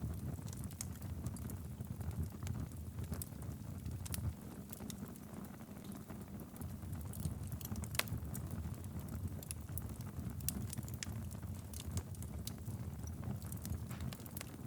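Fireplace wood fire burning steadily with a low rumble of flames and frequent sharp crackles and pops, one louder pop about eight seconds in.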